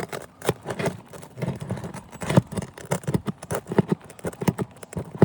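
Irregular clicks, taps and scrapes of asphalt roof shingles being lifted and handled during a shingle repair, a few sharp ticks a second.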